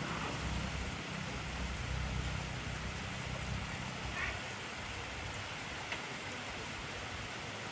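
Steady heavy rain falling, a dense even hiss with a few separate drop ticks, and a low rumble through the first half that fades out.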